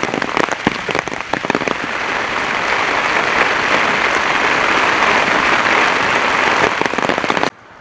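Heavy rain pouring down, a dense steady hiss with many individual drops striking close by. It cuts off suddenly near the end.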